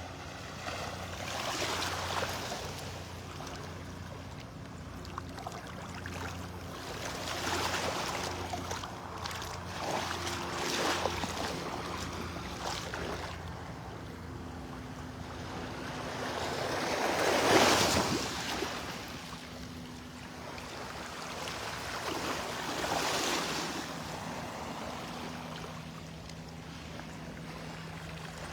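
Small waves washing onto the beach, each one swelling and fading every few seconds; the loudest comes a little past the middle. A faint steady low hum lies underneath.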